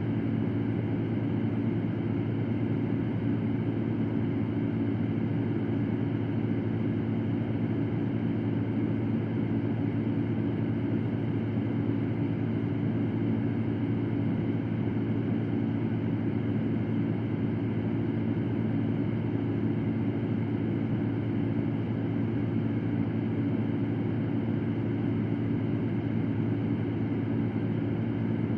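Electric fan running steadily: an even whoosh of moving air over a low hum, with no change in speed.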